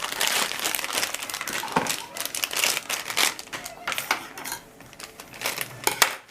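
Packaging of a small Funko blind-box figure crinkling and crackling as it is opened by hand, a dense run of crackles and sharp clicks with the loudest crackle near the end.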